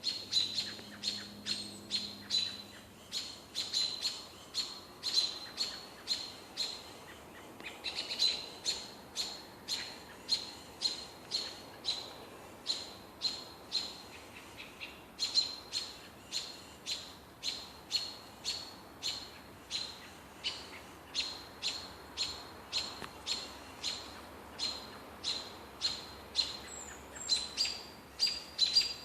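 A bird giving short, sharp chirps over and over, about three a second, with a couple of brief pauses.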